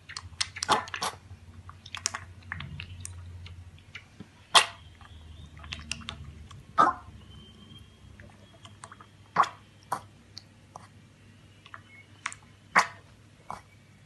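An animal chewing something crunchy: about a dozen irregular sharp crunches, a few much louder than the rest.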